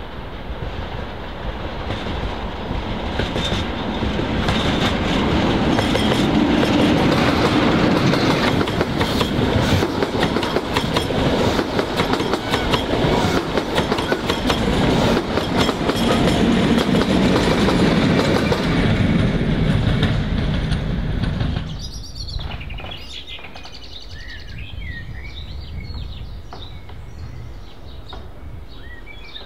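A diesel-hauled train passing close by, wheels clattering over the rail joints. It builds over the first few seconds, stays loud for about fifteen seconds, then falls away suddenly about three-quarters of the way through, leaving birdsong.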